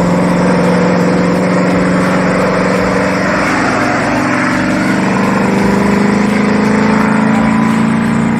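Motor vehicle engine running steadily, its pitch wavering briefly partway through and then climbing slowly toward the end, with a hiss of wind or tyre noise underneath.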